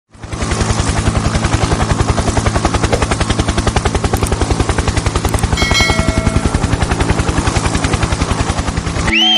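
Helicopter rotor chopping in a fast, even beat over a steady low hum. It cuts off abruptly near the end, where a short whistling glide begins.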